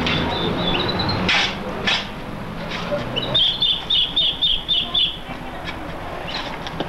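A small bird chirping: a few high notes at the start, then a quick run of about ten repeated chirps in the middle. Short scraping sounds come from digging in soil about a second and two seconds in, over a steady low hum.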